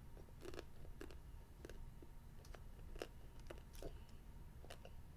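A child chewing candy jelly beans: faint, irregular chewing clicks, about one or two a second.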